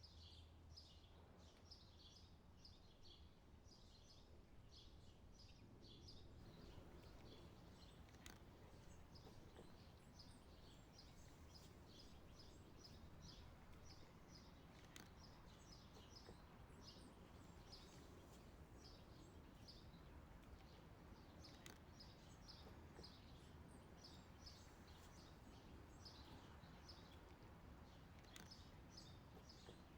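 Faint birds chirping in the background, short high calls repeating a few times a second throughout, over quiet outdoor background noise with a few soft clicks.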